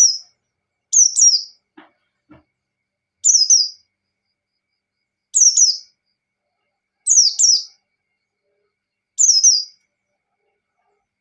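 A white-eye (pleci) singing its 'ngalas' song: six short, high phrases of quick falling notes, one about every two seconds, with two faint knocks about two seconds in.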